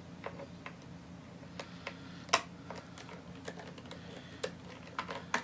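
Irregular light clicks and taps of hard plastic and small metal parts as a laptop's underside and tools are handled, with one sharper click a little over two seconds in.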